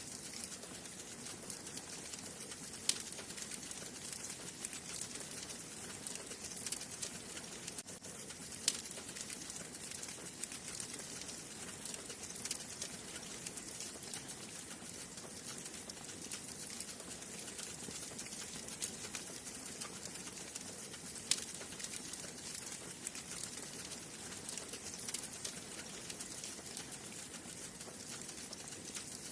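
Wood fire burning in a fireplace: a steady hiss with constant small crackles and a few sharper pops, the loudest about 3 s in, near 9 s and around 21 s.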